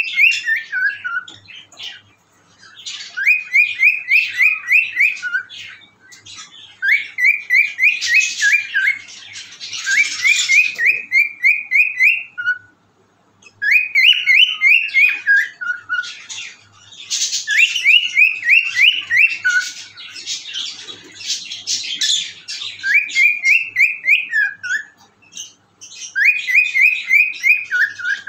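Cockatiel whistling: phrases of quick, rising whistled notes, each phrase ending in a lower falling note, repeated every few seconds with short pauses. Scratchy chatter runs between some of the phrases.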